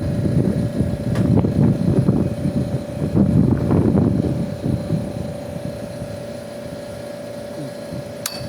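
Irregular low rumbling noise for about five seconds, over a steady mechanical hum, with a single sharp click near the end.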